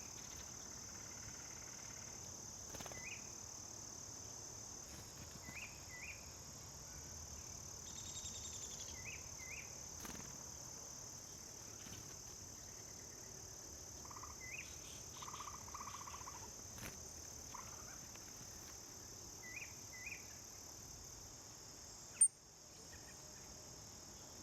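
Steady high-pitched chorus of crickets, with short bird chirps several times. Near the end there is one sharp, loud click.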